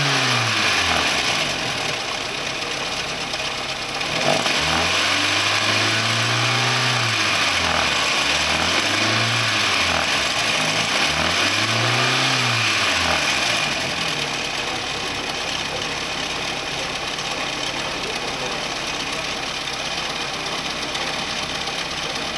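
Skoda Fabia 1.4 MPI eight-valve four-cylinder petrol engine (code AZE) being revved: the tail of one rev falls away at the start, then it is blipped up three times, once held for a couple of seconds. From about two-thirds of the way through it settles into a steady idle.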